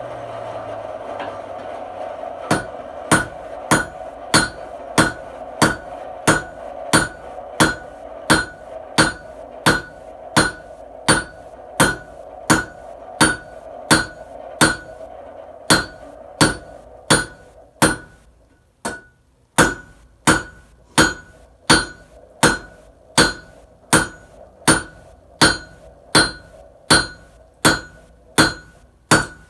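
Hand hammer striking a hot Damascus billet on an anvil in a steady rhythm of nearly two blows a second, each blow ringing, as the billet is squared up. A steady hum underneath fades out about two thirds of the way through, and the hammering pauses briefly before resuming.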